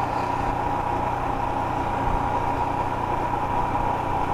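Motorcycle riding at a steady speed: the engine running under road and wind noise, with a steady high whine throughout.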